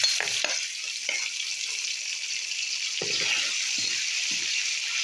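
Crushed garlic dropped into hot oil in a wok, sizzling steadily from the moment it hits. A metal spoon clicks and scrapes against the pan now and then as the paste is stirred.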